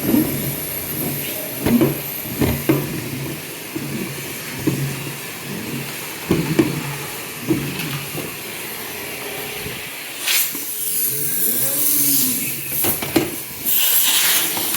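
Central vacuum suction pulling a retractable hose back into its storage pipe in the wall: a steady hiss of rushing air with repeated knocks and rattles of the hose moving through the pipe. From about ten seconds in, the air rush gets louder, twice.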